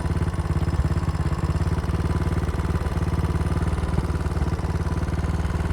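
Honda Dax-style motorcycle's small single-cylinder four-stroke engine idling steadily, with a leaking exhaust.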